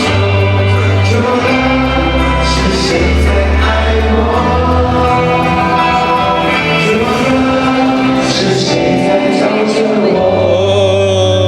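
Live pop concert music: an amplified band with heavy bass and sustained sung vocal lines.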